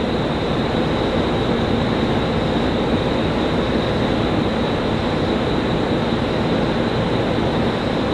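Chuo-Sobu Line local train standing at the platform with doors open, its onboard equipment giving off a steady whirring hum, with a faint constant high-pitched whine.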